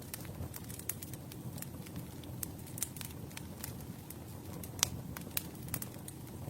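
Campfire burning, a low steady rumble of flames with irregular sharp crackles and pops of burning wood, one pop louder a little under five seconds in.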